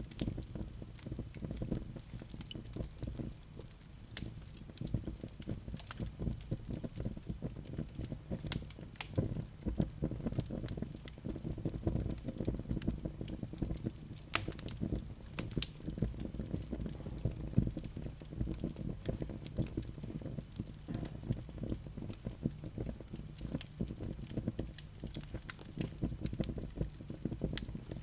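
Wood fire burning in a fireplace: many irregular crackles and sharp pops from the burning logs over a steady low rumble of the flames.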